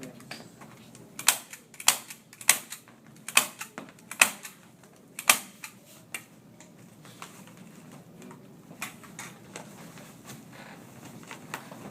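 Hand stapler driving staples into duct board: about six loud, sharp snaps in the first five seconds, irregularly spaced, then a few fainter clicks.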